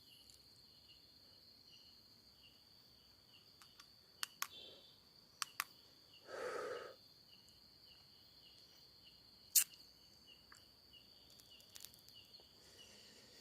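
Night insects, likely crickets, giving a steady high trill with a softer chirp repeating about twice a second. A few sharp clicks and a brief rushing noise about six seconds in stand out.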